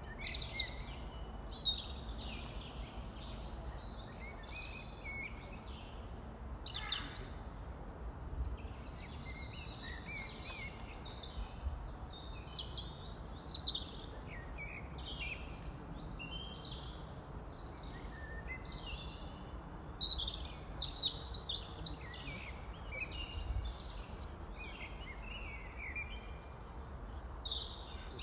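Many small birds chirping and twittering in quick, overlapping calls over a low, steady rumble.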